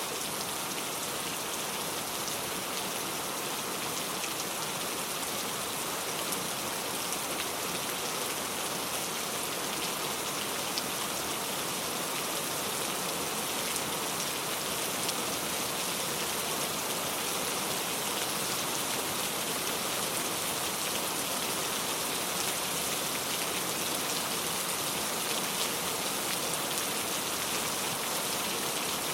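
Steady rain falling on a surface, an even hiss with the patter of individual drops throughout.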